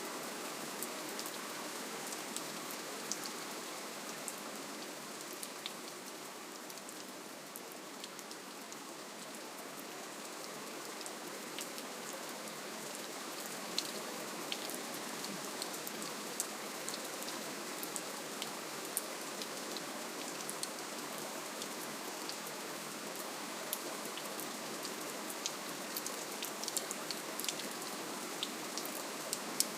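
Steady, gentle rainfall: an even hiss of rain with many scattered individual drops ticking on surfaces, easing slightly for a few seconds before filling back in.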